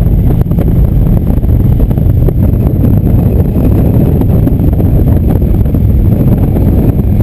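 Indian motorcycle riding at a steady speed, engine running with wind buffeting the microphone in a loud, even low rumble.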